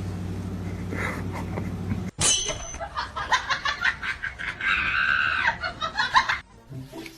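A steady low hum that cuts off about two seconds in, followed by a person laughing in quick bursts, with a drawn-out high squeal in the middle.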